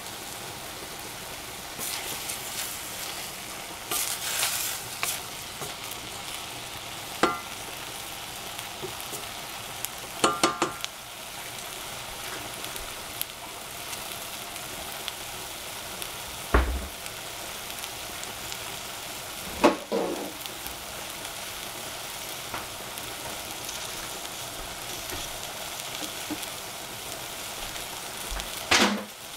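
Oyster mushrooms, greens and bean thread noodles sizzling in a stainless steel saucepan as a wooden spatula stirs them, with a few sharp knocks against the pan, two of which leave a brief metallic ring.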